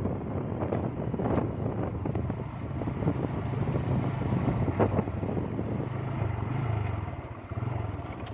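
A motor vehicle's engine running steadily under a noisy rush, its low hum wavering slightly in pitch.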